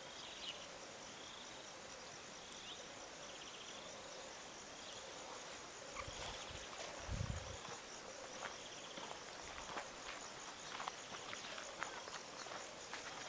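Insects chirring steadily in a high, rapidly pulsing drone, with short bird chirps scattered over it. From about halfway through come scattered clicks and rustles, with a low thump about seven seconds in.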